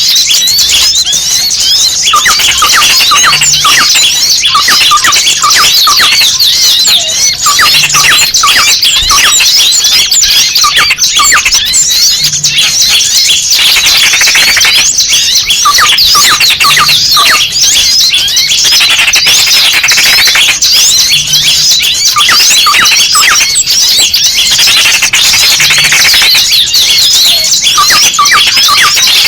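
Bird-lure recording of many small birds calling at once: rapid, high, agitated chirps, squeaks and twitters, like small birds alarmed by a trapped bird. The same stretch repeats about every four and a half seconds.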